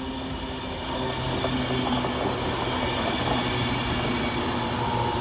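Class 390 Pendolino electric train passing through without stopping: a steady rumble of wheels on rail with a low electric hum, growing louder about a second in and holding.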